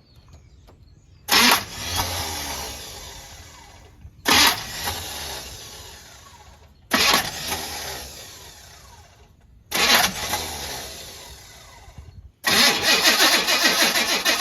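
Chevrolet El Camino being cranked in four short tries, about three seconds apart, each starting sharply and fading out; the engine won't start. About twelve seconds in, a longer, unbroken crank begins with a fast pulsing beat.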